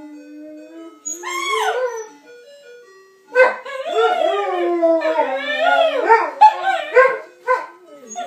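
A saluki and a Chinese crested dog howling along with a Swedish ice cream truck's jingle, which plays faintly beneath them. A short rising-and-falling howl comes about a second in, then a long wavering howl from about three seconds in.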